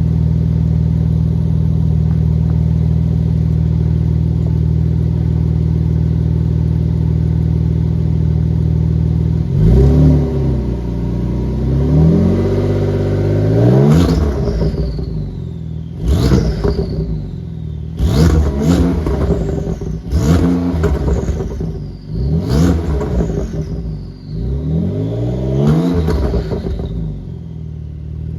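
Porsche 992 911 Turbo S twin-turbo flat-six idling steadily. About ten seconds in it starts being revved in a series of sharp blips roughly every two seconds, each dropping back with a high falling whine.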